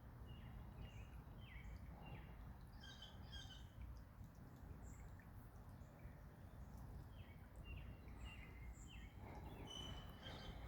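Faint birds calling: many short chirps, several falling in pitch, scattered throughout over a low steady rumble.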